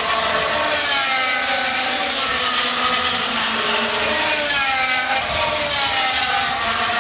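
Formula One cars' turbocharged V6 engines racing as a pack, several engine notes overlapping, each pitch repeatedly dropping and climbing again.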